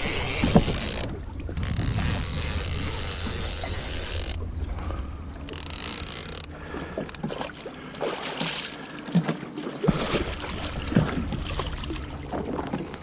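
Wind on the microphone and water sloshing against a drifting jet ski, with a steady rumble, a hiss that comes and goes, and a few small knocks.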